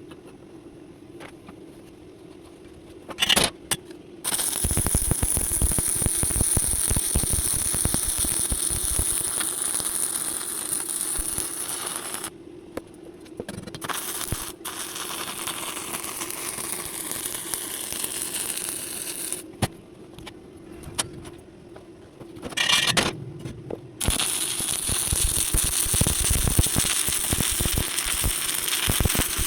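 Stick-welding arc crackling and hissing in runs of several seconds, stopping twice and starting again.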